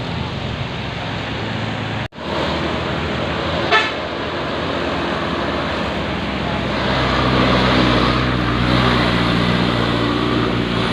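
Heavy dump truck's diesel engine running under load, growing louder past the middle, with a short horn toot about four seconds in. The sound drops out for an instant about two seconds in.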